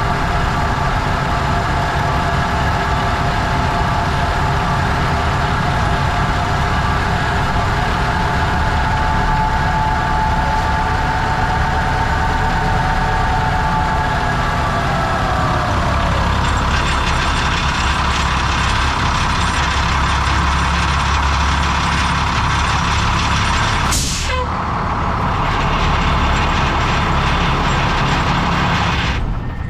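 A 1996 International 4900 diesel truck's engine running as it drives slowly. Its pitch falls about halfway through, then a heavier low rumble sets in, with a short sharp hiss about two-thirds of the way in.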